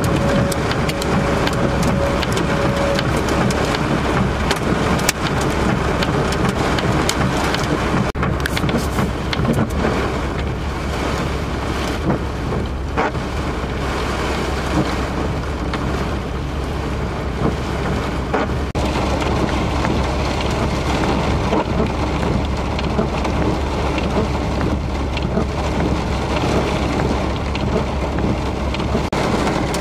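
Heavy rain pelting a car's windshield and roof, heard from inside the car, over a steady low hum, with a few sharp knocks now and then.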